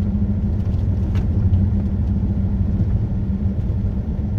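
Steady low rumble of a car driven slowly on snow-covered, icy roads, heard from inside the cabin: engine and tyre noise with a faint steady hum.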